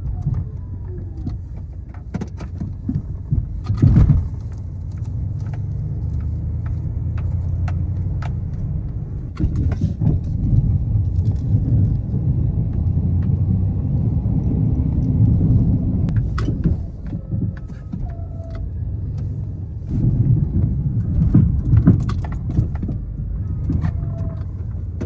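Pickup truck with a snow plow running while it plows a lot. A steady engine rumble is broken by repeated knocks and rattles, loudest around four seconds in and again near twenty-two seconds.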